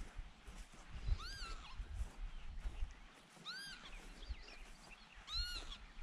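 An annoyed bird giving alarm calls: three short calls about two seconds apart, each rising and then falling in pitch. Light wind rumbles on the microphone underneath.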